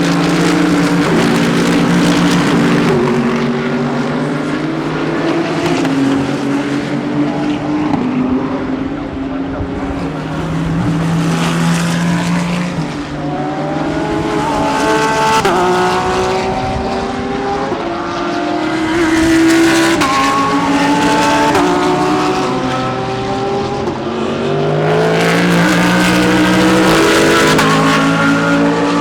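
Several GT3 race cars passing at racing speed, their engine notes overlapping. The pitch climbs in steps through quick upshifts and drops back on lifts and downshifts. The sound swells loudest twice, in the middle and near the end.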